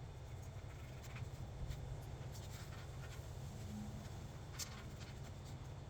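A few faint, short clicks and light handling noise over a steady low hum.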